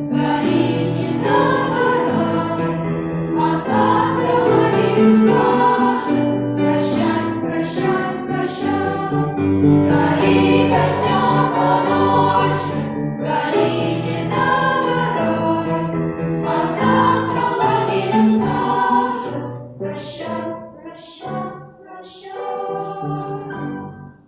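A group of voices singing a song together, choir-style. The singing grows quieter over the last few seconds.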